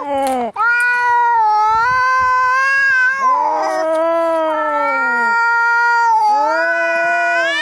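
Angry cats yowling at each other in long, wavering howls with short breaks between them, two voices overlapping near the middle: the drawn-out caterwaul of a cat fight standoff.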